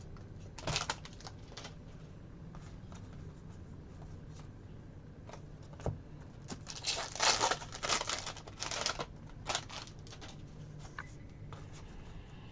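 A foil trading-card pack wrapper crinkling and tearing as a pack is opened and the cards are handled. The rustles come in short clusters, the busiest about seven to nine seconds in.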